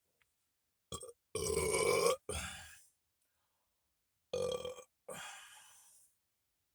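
A person belching loudly, two long drawn-out belches with shorter ones beside them.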